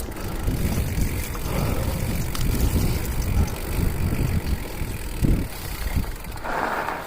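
Electric bike being ridden, with wind buffeting the microphone as a rough, uneven rumble; a short hiss about six and a half seconds in.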